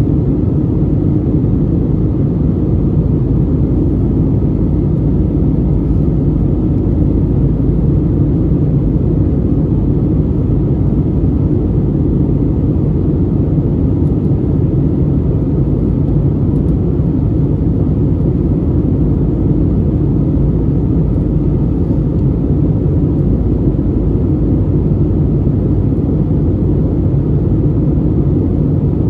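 Steady low cabin rumble inside an Airbus A320neo in flight. The CFM LEAP-1A engines and the airflow over the fuselage make an even, unchanging drone heard from a seat near the wing.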